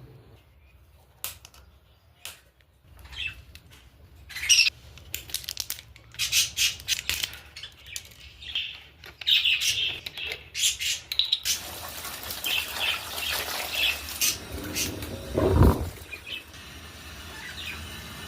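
Budgerigars chirping and squawking among scattered sharp clicks and knocks, with wings flapping at times. A steady hiss joins about two-thirds of the way in.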